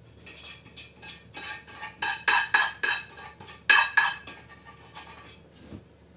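Spoon scraping and clinking against cookware in a quick run of clinks, about three a second. They are loudest around two and four seconds in and die away near the end.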